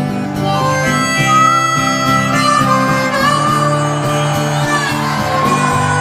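Harmonica playing the melody over a strummed acoustic guitar accompaniment, an instrumental break in a country-folk backing track.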